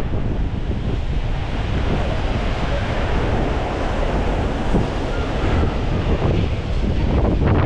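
Strong gusty wind buffeting the microphone, a loud steady rumbling rush, with rain and road traffic underneath.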